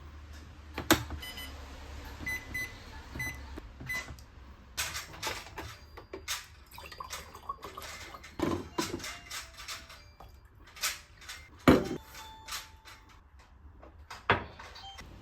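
Kitchen handling sounds: a string of sharp knocks and clatters as objects are put down and moved, with a few short electronic beeps from an appliance about one to four seconds in.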